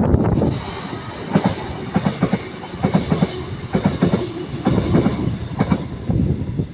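CrossCountry Class 221 Voyager diesel multiple unit passing close by, its wheels clicking over rail joints in quick pairs over a low running rumble. It is loudest at the start.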